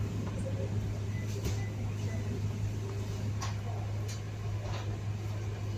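Steady low hum of a vehicle engine, with a few faint clicks scattered through it.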